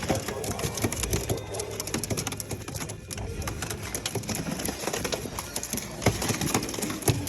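Caged pigeons cooing and shuffling amid background chatter from people, with many scattered clicks and knocks.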